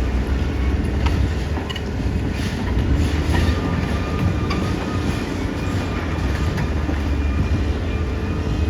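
Caterpillar D6R XL crawler bulldozer's diesel engine running steadily under load, with its steel tracks clanking and squealing as it moves.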